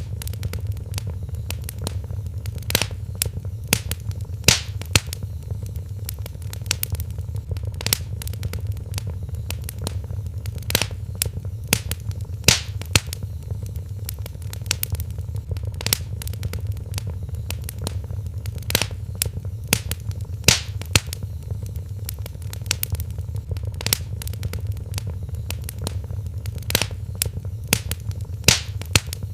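Wood fire crackling in a fireplace: irregular sharp pops and snaps, a few much louder than the rest, over a steady low rumble of the flames.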